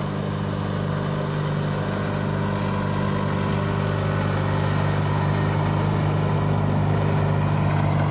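Riding lawn tractor engine running at a steady speed, growing slowly louder.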